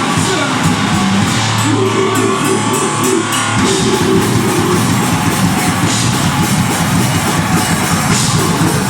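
Deathgrind band playing live at full volume: heavily distorted guitars, bass and fast drums in a dense wall of sound, with the low end filling in about three and a half seconds in.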